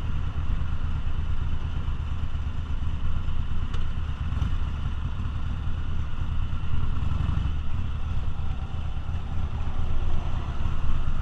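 V-twin cruiser motorcycle engine running under way, a steady low rumble that swells a little now and then.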